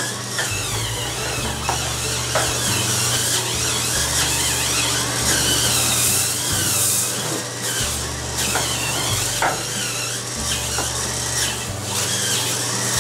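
Hurricane Spin Scrubber's battery motor whirring as its spinning brush head scrubs tile and grout, a steady rubbing, scraping noise over the motor's hum, which shifts in pitch now and then as the pressure changes.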